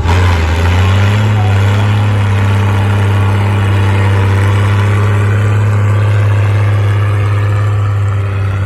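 Loud tractor engine at a tractor pull: its pitch climbs over about the first second, then it runs at a steady high speed.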